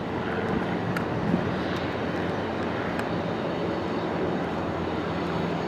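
Jet airliner engines running steadily: a continuous rush with a faint low steady hum underneath.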